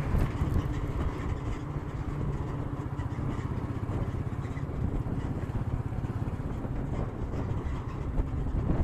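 Royal Enfield Meteor 350's single-cylinder engine running steadily while being ridden, with a low rumble and road noise, picked up by an action camera's built-in microphone.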